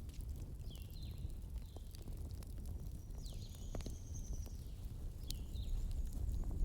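Wood fire in a fireplace crackling, with scattered sharp pops over a steady low rumble. A few short high chirps sound over it.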